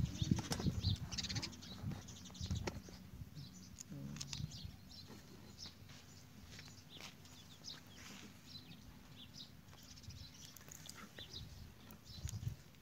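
Small birds chirping in short, high calls again and again, faint, over a low steady hum that fades out about halfway through.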